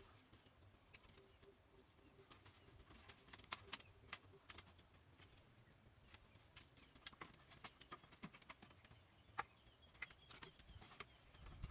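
Near silence with scattered faint clicks and taps, and a soft low cooing about a second in, like a dove's.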